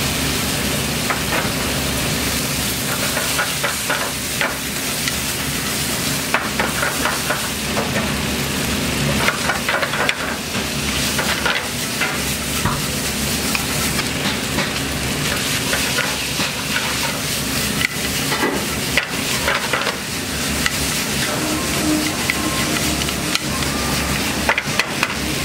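Seafood, vegetables and rice sizzling and frying hard in a black pan over a high gas flame, with frequent short clatters as the pan is tossed and the fried rice stirred.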